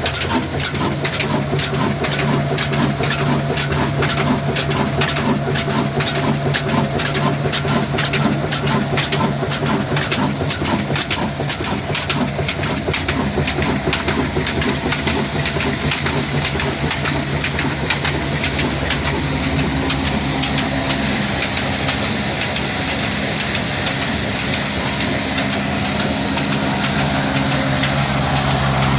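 Old diesel engine running, with a regular knock about twice a second over a steady hum and hiss; the knock fades away about halfway through, leaving the hum and hiss.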